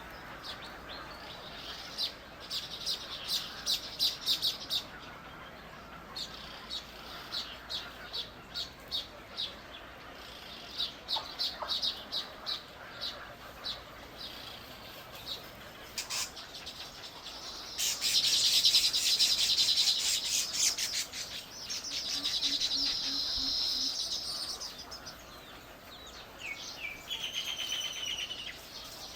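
Birds chirping in runs of quick, high, repeated notes. About eighteen seconds in comes a louder, dense, rapid rattling call, then a buzzy trill.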